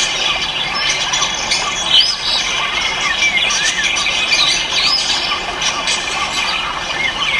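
Many cage birds calling at once: a dense, continuous chatter of squawks and short whistled chirps.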